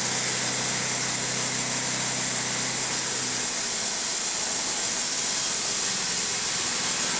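Wood-Mizer LT15 band sawmill running with a steady mechanical noise. A low hum in it drops out about three and a half seconds in while the rest carries on.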